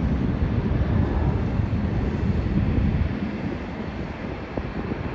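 Low rumble of a Boeing 737 jet airliner taking off, mixed with wind buffeting the microphone; it eases off about three seconds in.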